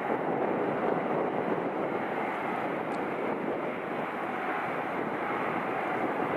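Jet airliner engines making a steady rushing noise that holds level throughout.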